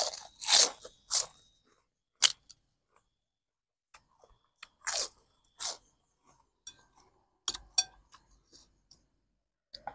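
A person biting and chewing crisp food close to the microphone: a run of loud crunches in the first second or so, then single crunches scattered through the rest, with quiet gaps between.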